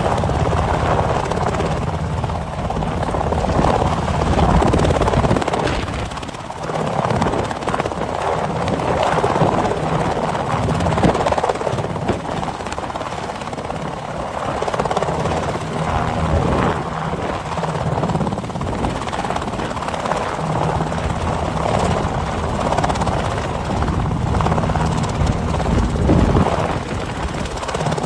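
Helicopter running with a steady rotor and engine noise.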